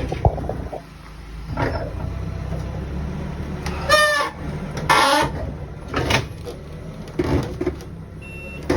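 Steady low hum of an idling engine, with a few loud squeals and clatters of loading work, and a high electronic beep starting near the end.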